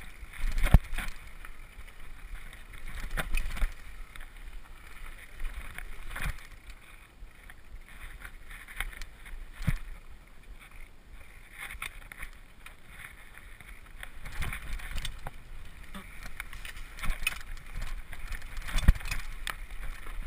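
Mountain bike descending a rough, rocky trail: tyres running over dirt and stones with repeated knocks and rattles from the bike, and wind rumbling on the microphone.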